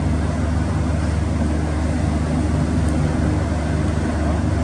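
Passenger ship's engines running with a steady low drone, under an even rushing hiss.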